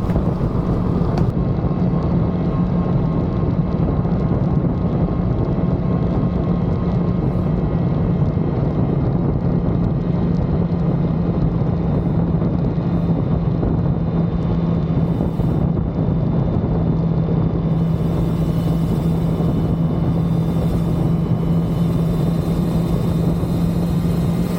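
Suzuki GSX-R750F's oil-cooled inline-four engine running at steady revs as the motorcycle cruises, a constant drone that holds one pitch throughout.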